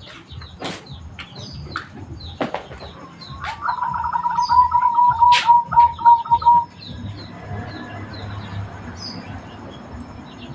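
Zebra dove (perkutut) cooing a quick run of repeated notes for about three seconds, midway through. Small birds chirp throughout.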